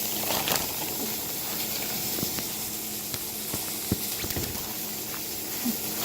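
Beef burgers sizzling in a hot pan: a steady frying hiss, with a few light clicks and knocks.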